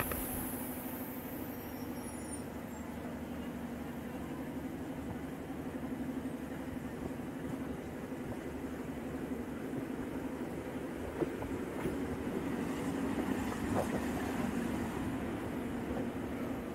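Electric commuter train running on the rails, heard from an open carriage window: a steady hum with rumbling wheel noise and a few brief clicks from the track.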